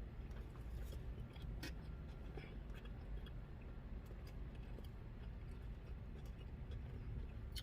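A person quietly chewing a birria taco: faint scattered wet clicks and small crunches over a low steady rumble.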